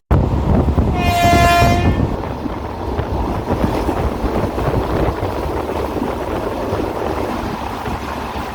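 A diesel locomotive's horn sounds once, briefly, about a second in, over the steady rumble of the moving passenger train.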